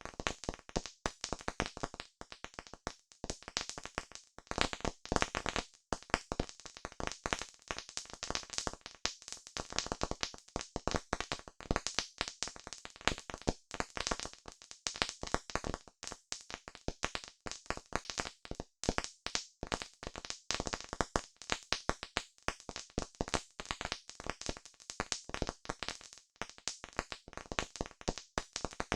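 Campfire crackling: a dense, irregular stream of sharp pops and snaps from burning wood.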